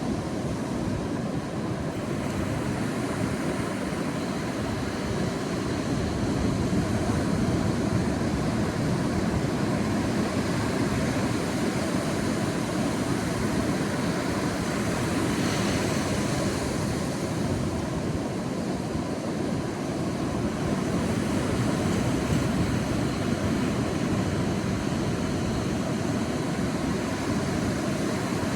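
Sea surf breaking and washing on a beach: a continuous low rush that swells and eases slowly, with one wave's wash hissing brighter about halfway through.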